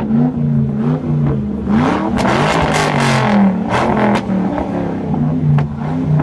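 A car engine revved repeatedly, its pitch climbing and dropping several times. Short bursts of hiss come in about two and four seconds in.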